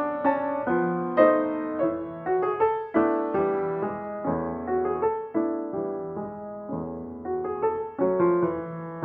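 Background piano music: a gentle melody over chords, notes struck one after another and dying away.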